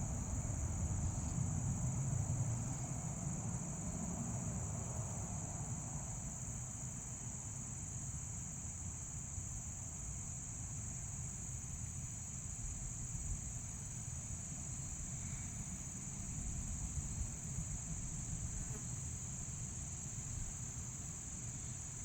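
Crickets chirring in a steady high-pitched drone, over a low rumble that eases after the first few seconds.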